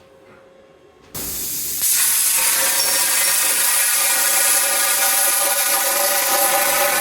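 Rotary CNC plasma cutter's torch starting up about a second in with a sudden hiss, which steps up louder moments later and then runs on as a steady loud hiss with a buzzing tone while the arc cuts the pipe.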